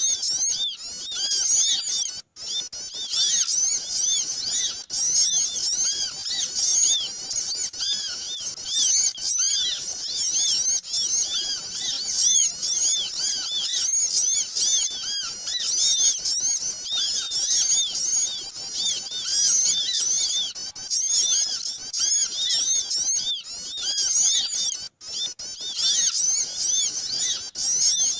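Bird-luring recording of many small birds chirping at once: a dense, noisy chorus of short high chirps overlapping without a break, except for two brief drop-outs, one about two seconds in and one near the end.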